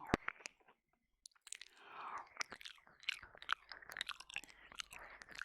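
Wet ASMR mouth sounds very close to a binaural microphone: licking and smacking with many sharp wet clicks. One loud click comes right at the start, then a brief pause, and from about a second in the clicking and smacking runs on densely.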